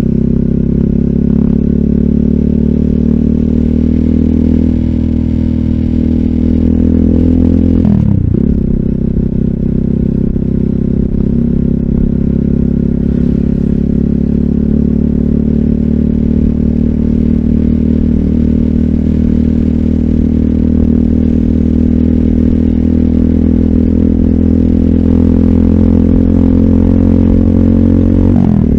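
RUSI Classic 250Fi motorcycle engine running under way through an Eli's Muffler full exhaust with a slip-on bullet pipe and dB killer. The engine note climbs slowly, drops sharply and recovers about eight seconds in and again near the end, as gears are shifted, then holds steady.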